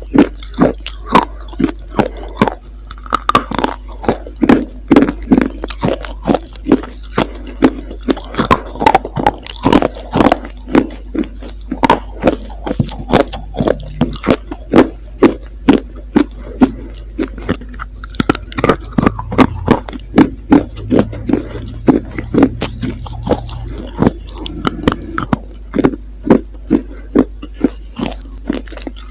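Close-miked biting and chewing of hard, crunchy chalk-like edible clay, with sharp crunches coming about two or three a second.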